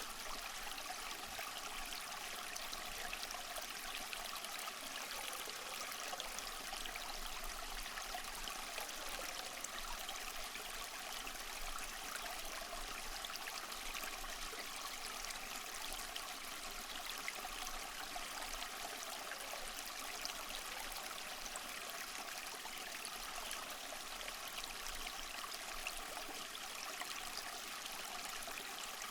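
Steady rushing water, an even wash of sound with no distinct swells or breaks of individual waves.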